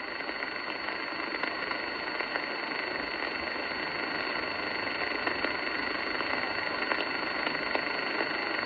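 CB radio receiver hissing with steady band static on an open sideband channel, with a few faint crackles.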